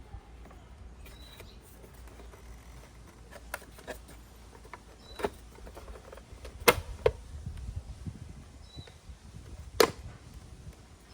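Sharp metallic clicks and knocks of hand tools and parts being handled during scooter brake work, scattered through the stretch, with the two loudest about three seconds apart. A bird chirps briefly a few times.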